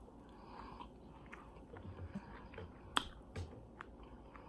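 Soft chewing of food with wet mouth sounds and a few short clicks, the sharpest about three seconds in.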